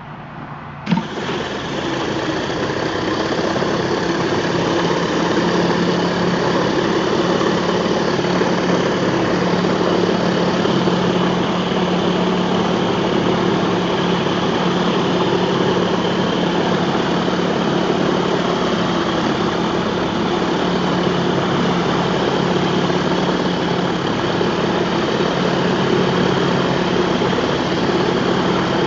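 Pressure-washing rig's engine running steadily under the hiss of the high-pressure water spray. A sharp click about a second in, and the sound jumps up and stays level from then on.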